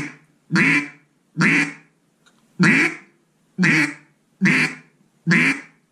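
Zink NBG single-reed acrylic duck call blown in a series of basic single quacks, seven short raspy notes about a second apart.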